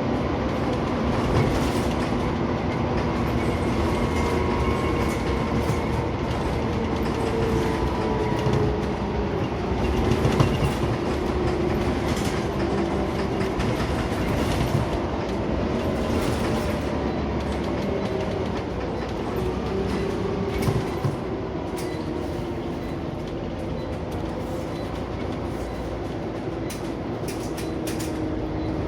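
Inside a Scania CN94UB Omnicity single-deck bus on the move: the diesel engine runs under a steady road and body rumble, its note drifting slowly downward, with a few short rattles near the end.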